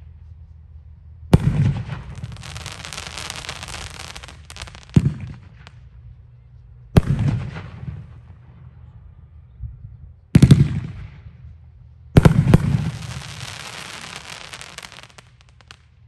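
Consumer 500-gram fireworks cake firing 2-inch aerial shells with silver brocade crown and gold willow breaks: five loud shell bursts, about a second in, then at five, seven, ten and twelve seconds. The first and last bursts are each followed by a few seconds of crackling.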